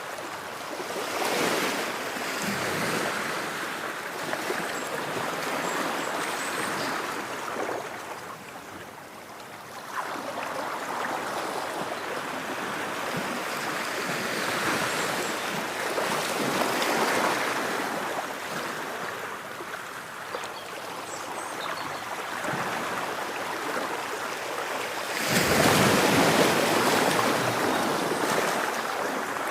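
Ocean waves breaking and washing ashore in a continuous surge of surf, swelling and easing, with the largest breakers near the start and from about 25 s on.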